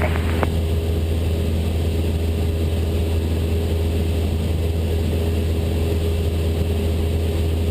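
Cessna 172 Skyhawk's piston engine and propeller droning steadily in level cruise, with a single click about half a second in.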